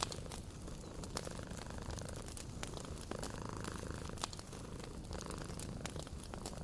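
A cat purring steadily and low, over a wood fire crackling with scattered sharp pops.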